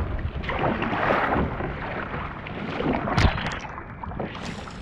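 Water sloshing and splashing around a fishing kayak at sea, swelling and easing about once a second, with a sharp knock about three seconds in.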